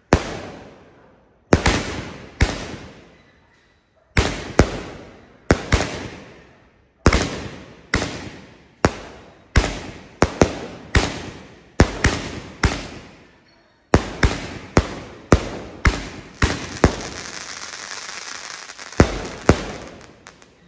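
Dragon Fireworks "Dragon's Crimson Rebirth" 16-shot firework cake firing: a rapid run of sharp bangs, about one to two a second, each trailing off in an echo. There is a short pause near the middle, and a dense crackle for about two seconds near the end before a final few bangs.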